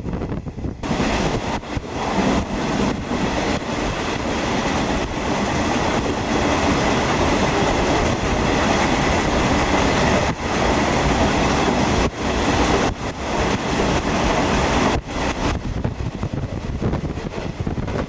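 Running noise of a 50-series passenger coach at speed through a tunnel: a loud, steady rumble of steel wheels on the rails. It rises sharply about a second in and eases back about fifteen seconds in.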